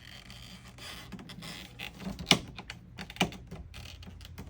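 A small metal pick tool clicking and scraping against the window crank's retaining clip on a Jeep TJ door panel: irregular light clicks, with two sharper clicks about a second apart past the middle.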